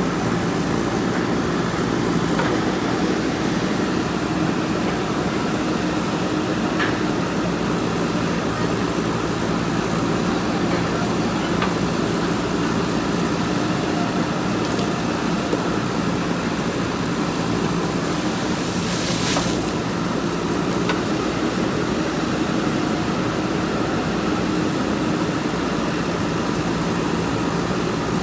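JCB 3DX backhoe loader's diesel engine running steadily under work, with a brief hiss about two-thirds of the way through.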